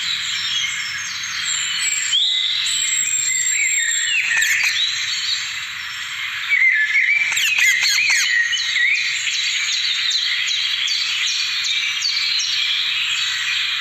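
Dense chorus of many birds chirping and calling over one another, with a few harsher squawks about four and seven seconds in.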